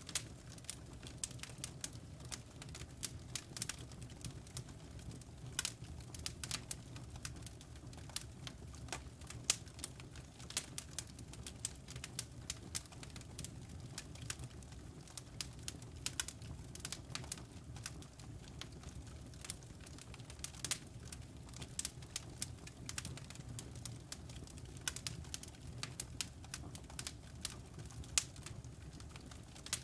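Wood fire in a fireplace crackling and popping: many quick, irregular snaps over a steady low rumble of the flames.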